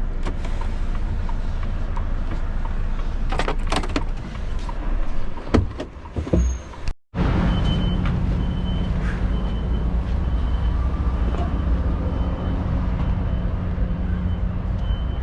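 Lorry engine running steadily as heard from inside the cab, with a few knocks and rattles a few seconds in. After a brief break about halfway through, a faint high beep repeats evenly, roughly every two-thirds of a second, over the engine hum.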